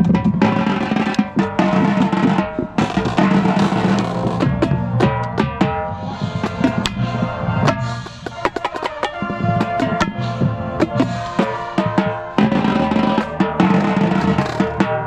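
A band playing a song, with a drum kit up close and loud: snare and bass drum hits under pitched instruments. The playing thins out for a moment about eight seconds in, then the full band comes back in.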